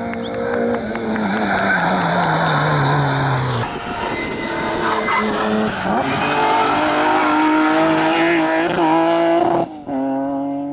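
Rally car running hard on a tarmac stage. The engine note falls as it slows into a corner with the tyres squealing, then climbs again in steps as it accelerates up through the gears. It breaks off abruptly near the end, replaced by another car's engine.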